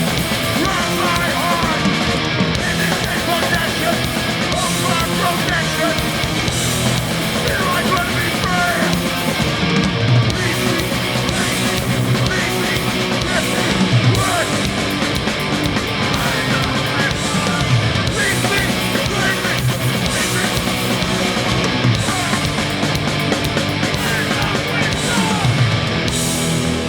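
Hardcore punk band playing live at full volume, a dense, steady wall of distorted electric guitar with the full band.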